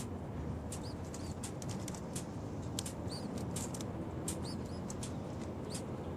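Small birds chirping: a quick run of short, sharp, high chirps and arched chip notes, several a second, over a steady low background rumble.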